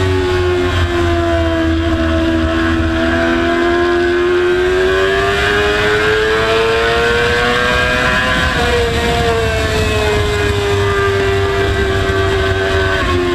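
Motorcycle engine running hard at high revs, its pitch climbing slowly for several seconds, dropping slightly a little past halfway, then easing down. A steady low rumble runs underneath.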